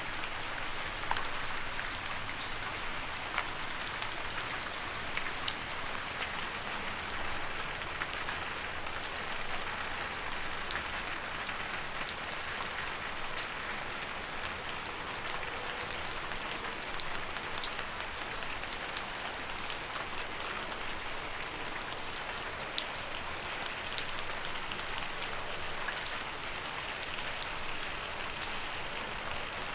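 Steady rainfall, an even hiss of falling rain with many individual drops ticking sharply on a hard surface.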